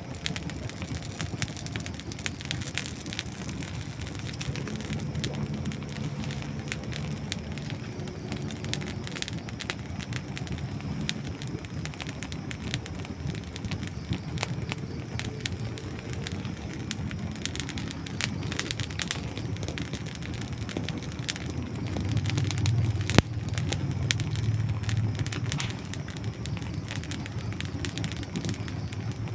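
Wood campfire burning: dry wood crackling and popping in a steady scatter of small snaps over the low rush of the flames. Late on the flame rush swells and one sharp, loud pop stands out.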